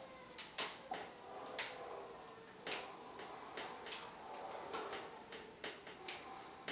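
A series of irregular sharp clicks and light knocks, roughly one every half second to a second, over faint room noise.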